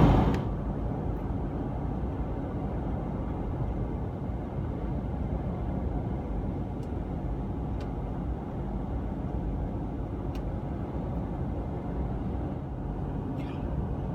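Steady road and engine noise inside a Ford F350 diesel pickup's cab as it drives along the highway.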